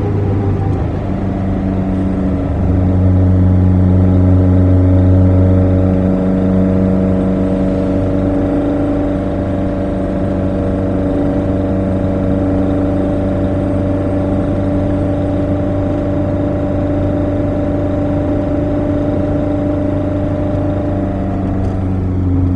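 Lada VAZ 2103's 1600 cc four-cylinder engine on twin Weber DCOE 40 carburettors, heard from inside the cabin while driving at steady revs. It gets louder for a few seconds about three seconds in, then settles to an even cruise.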